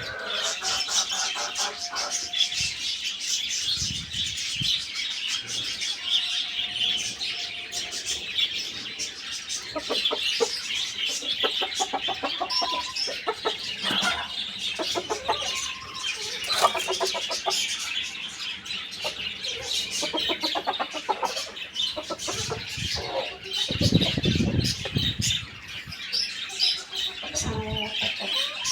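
Chickens clucking, with a constant chatter of small birds chirping at a higher pitch, and a brief low rumble about three-quarters of the way through.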